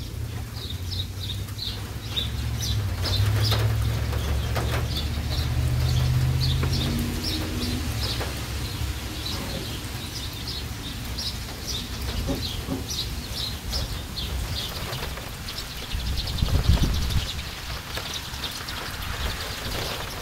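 Small birds chirping over and over in short high notes, over a low rumble that fades after the first several seconds. A single dull thump is the loudest sound, about three-quarters of the way through.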